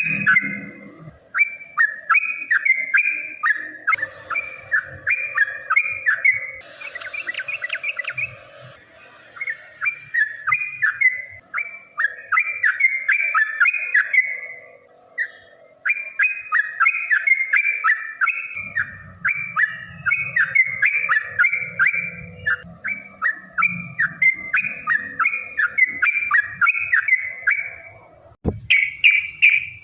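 Yellow-vented bulbul (trucukan) singing its bubbly chattering phrases over and over in long runs with only brief pauses. A single sharp click comes near the end.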